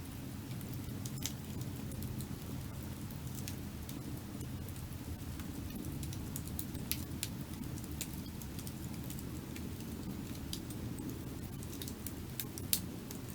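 Burning firewood crackling, with irregular sharp pops and snaps over a steady low rush; one pop near the end is louder than the rest.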